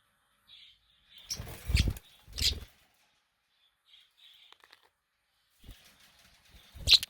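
Budgerigars chirping softly, broken by three loud bursts of wing flapping: two close together about a second and a half in, and one at the very end.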